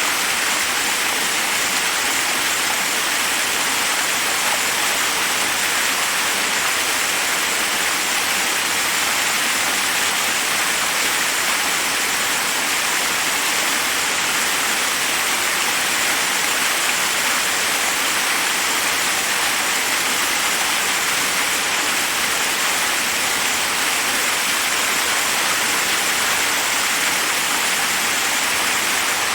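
Forest waterfall: water cascading over rocks in a steady, unbroken rush, mostly a high hiss with little low rumble.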